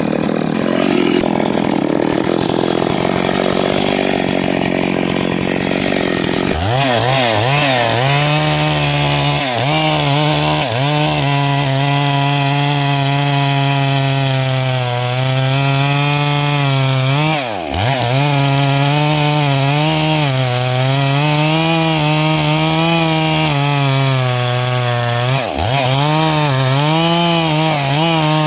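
Chainsaw running at high revs, cutting wood. For the first few seconds the cutting noise dominates; after that the engine's steady high whine stands out, wavering slightly as the load changes. Twice the revs drop sharply and come straight back up.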